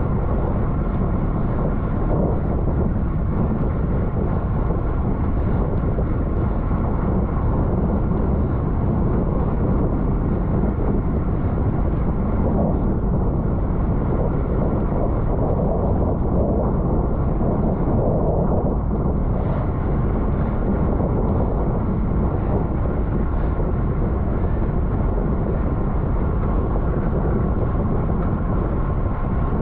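Steady rushing wind and road noise on the microphone of a camera riding on a racing bicycle at speed.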